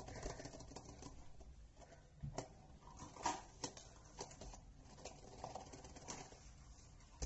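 Faint scattered taps and rustles of a small puzzle-cube box being handled and opened.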